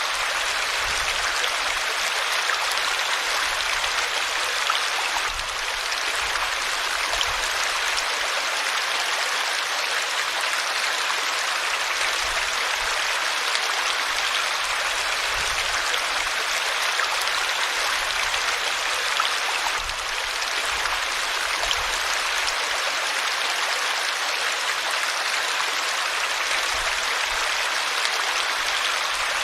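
River water flowing over rocks: a steady, even rushing with no pauses.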